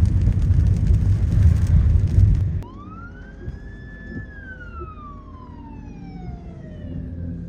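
A loud low rumbling noise that cuts off abruptly, followed by an emergency vehicle siren wailing: one long cycle that rises, holds briefly, then falls slowly before beginning to rise again.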